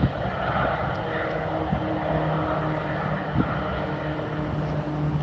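Jet engines running at takeoff power as a jet departs the runway, a steady rushing noise with a low hum underneath and a few light knocks.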